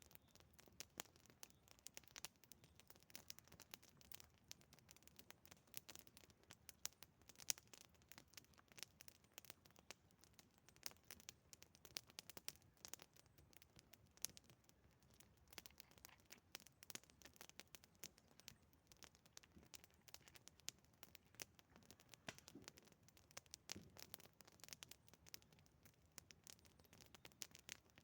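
Campfire wood burning with faint, irregular crackles and pops, several a second, with one louder snap about seven seconds in.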